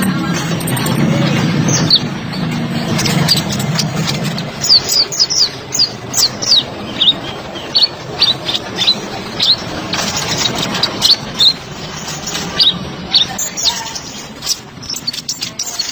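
Kolibri ninja, a sunbird, singing a fast run of short, high, sharply falling chirps that start about four seconds in and go on in quick strings. A low rumbling background noise runs underneath, strongest in the first few seconds.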